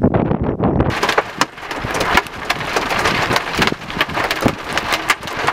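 Wind noise on the microphone for about the first second, then rain: a steady hiss with many sharp, irregular taps of drops striking close to the microphone.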